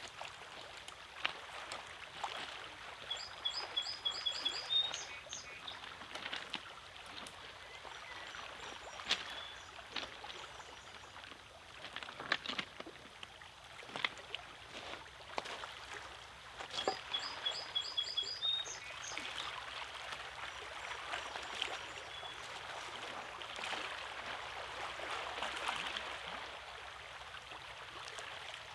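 Small waves lapping and splashing against the rocks of a lakeshore: a steady wash with many small splashes. Several times a bird calls a quick run of short high notes ending in one higher note.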